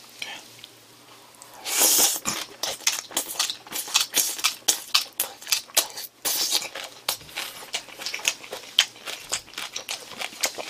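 Close-miked chewing of a kimchi-wrapped bossam (boiled pork) bite: a loud bite about two seconds in, then rapid, steady chewing clicks.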